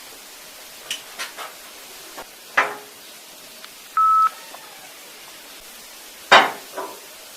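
A few sharp clicks and knocks, and about four seconds in a single short electronic beep. The loudest knock comes near the end.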